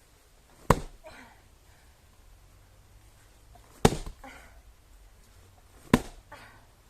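Firewood being split: three sharp chopping strikes, the second about three seconds after the first and the third two seconds later, each followed by a short, fainter clatter.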